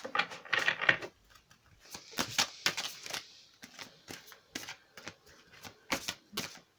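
Oracle cards being shuffled and handled by hand: rustling card flicks in the first second and again about two to three seconds in, with scattered light taps and clicks between.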